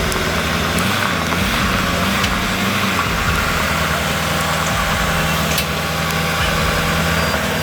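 Heavy vehicle's diesel engine running steadily, its pitch wavering up and down briefly about a second in before holding steady again.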